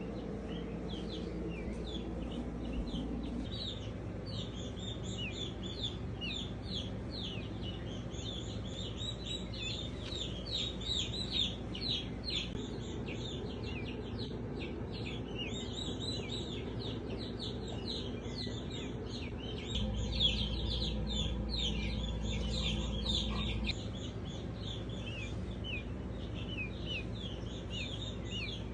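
A brood of peachicks peeping nonstop: many short, high, falling peeps overlapping, several a second, over a low steady hum.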